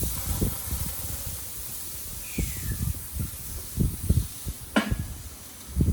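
Ribeye steaks sizzling on a hot gas grill's grates just after being turned: a steady hiss, with irregular low thumps and one sharp click about five seconds in.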